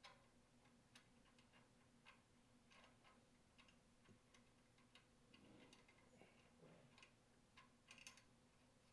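Near silence with faint, irregular clicks and soft handling noise, loudest near the end: small parts of a detergent pump's check valve being handled and fitted together by hand.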